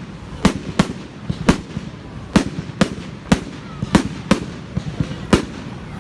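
Fireworks going off: about nine sharp bangs in six seconds at uneven intervals, each followed by a short echo.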